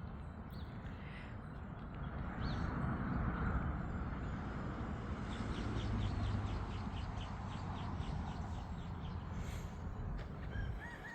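A bird's rapid chirping trill, several short high notes a second, runs for a few seconds about halfway through, over a low rumble.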